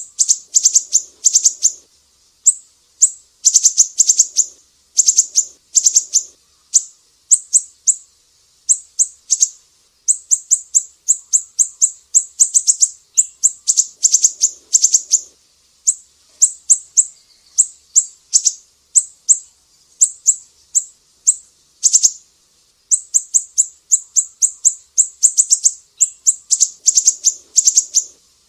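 Sumatran siri-siri songbird singing: rapid, very high-pitched runs of chirps in bursts of a second or two, separated by short pauses.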